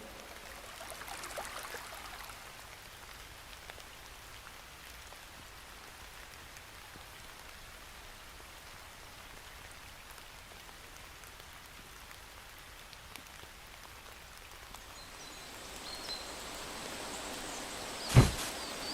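Faint, steady rain-like hiss, with a single sharp click near the end.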